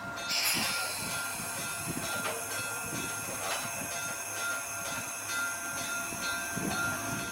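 Narrow-gauge train, pulled by a gasoline locomotive, running on the rails: a steady rumble and rattle with regular light clicks and a thin, steady high whine.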